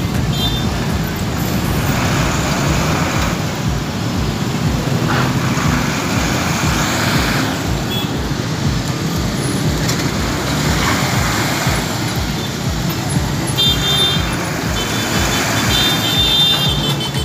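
Road traffic noise: vehicle engines running and passing steadily, with a low rumble throughout. A high-pitched tone sounds on and off for the last few seconds.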